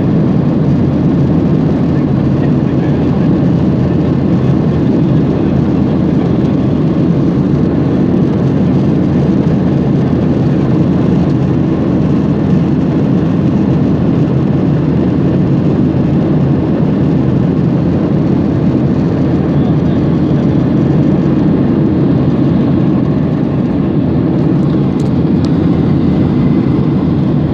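Airliner cabin noise in flight: a steady, unbroken low rush of engine and airflow noise heard from inside the cabin.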